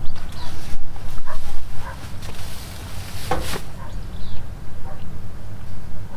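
Short animal calls, the loudest a single cry about three and a half seconds in, over a steady low rumble.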